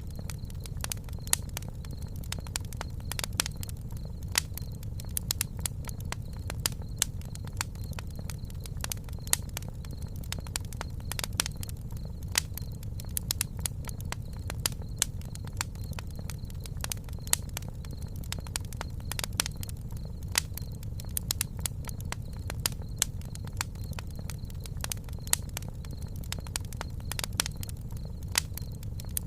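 Wood campfire crackling: frequent, irregular sharp pops and snaps over a steady low background.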